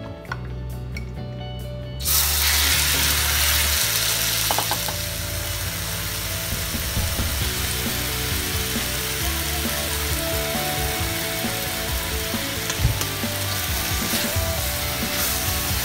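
Chicken breast pieces start sizzling in hot oil in a wok about two seconds in, then fry steadily while a wooden spatula scrapes and stirs them against the pan. Soft music with a steady bass runs underneath.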